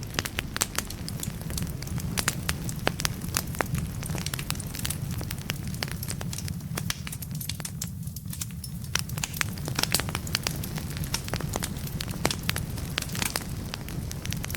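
Wood fire crackling in a fireplace: frequent sharp pops and snaps of burning logs over a steady low rumble of the flames, thinning out for a moment around the middle.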